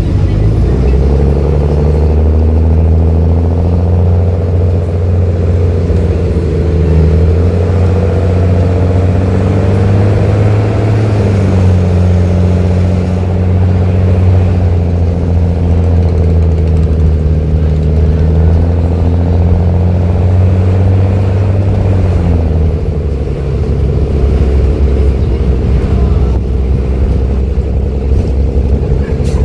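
Mercedes-Benz OH-1318 bus diesel engine running loud through a free-flowing exhaust, its pitch changing with engine speed and dropping a little over twenty seconds in.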